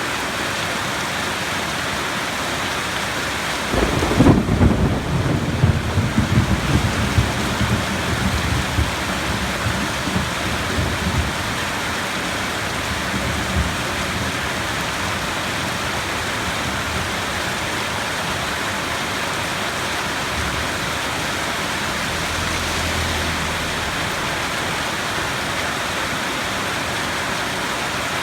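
Steady heavy rain, with a thunderclap about four seconds in that breaks suddenly, rumbles and crackles, and dies away over several seconds while the rain goes on.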